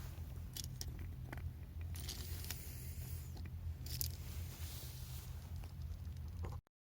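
Knife blade shaving and scraping wood in short irregular strokes with small clicks, over a steady low rumble. The sound cuts off abruptly near the end.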